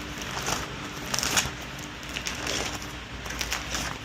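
Postcards and album pages rustling and scraping as they are handled and turned, in a string of short, irregular bursts.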